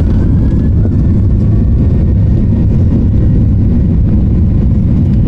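Boeing 737-800's CFM56-7B jet engines at takeoff power, heard from inside the passenger cabin as a loud, steady low rumble with a faint high whine above it.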